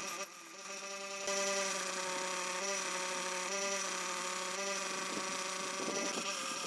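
A small electric motor, such as a power tool, runs with a steady whine that starts about a second in and dips slightly now and then.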